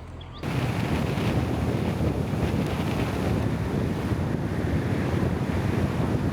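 Steady rushing wind noise buffeting the microphone, heaviest in the low end. It starts abruptly about half a second in, cutting off faint birdsong.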